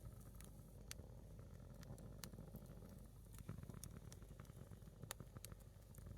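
A single burning firewood log crackling faintly, with sharp, irregular pops about once or twice a second over a low steady rumble.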